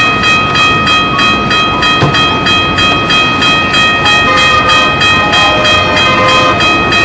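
Train running by: a fast, even clatter of about four to five strokes a second, under a steady high-pitched ringing tone.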